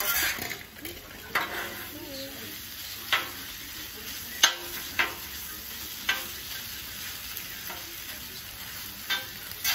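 Food frying on a hot cooking surface with a steady sizzle, while a metal utensil scrapes and knocks on the surface about six times.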